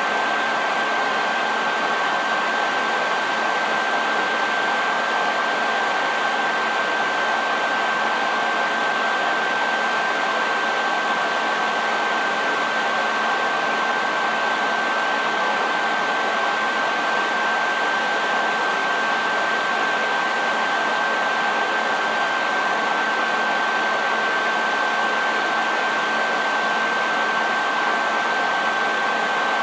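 Hair dryer running steadily: a continuous rush of blown air with a steady high-pitched motor whine over it.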